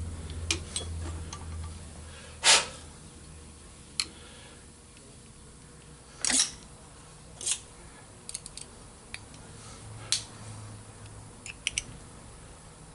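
Scattered sharp metal clicks and clinks, about a dozen, the loudest two about 2.5 and 6.3 seconds in, as a solid carbide pilot and tool holder are handled and fitted on a valve seat cutting machine. A faint low hum runs underneath.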